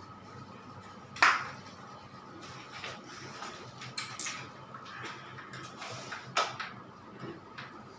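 Light clicks and knocks of tools and fan parts being handled while the exhaust fan's cable is connected: three sharper knocks, about a second in, four seconds in and near the end, over a faint steady hum.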